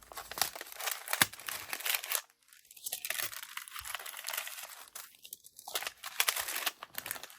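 Irregular crinkling and rustling of paper and packaging as die-cut paper butterflies are handled and sorted. There is a sharp crackle about a second in and a short lull a little after two seconds.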